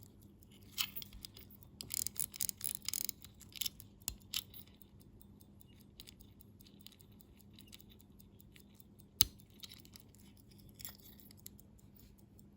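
Enicar 17-jewel manual-wind pocket watch ticking fast and evenly after being oiled, with louder irregular clicks and rustles of handling over it, a cluster of them from about two seconds in and a sharp knock past the middle.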